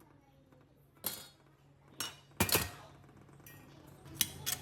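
A few separate metallic clinks and knocks, the loudest about two and a half seconds in, with small clicks near the end: metal parts being handled and set down.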